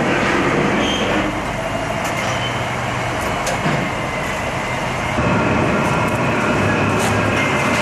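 Steady mechanical din of boat-factory shop machinery, with a few short knocks; it gets louder about five seconds in.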